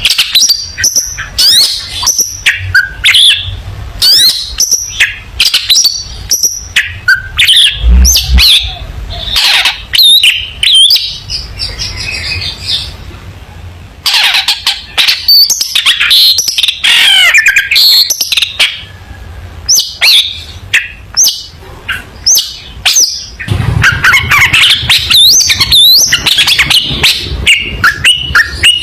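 Long-tailed shrike (cendet) singing energetically: a fast, varied stream of sharp chirps and quick whistled glides, with a couple of brief lulls.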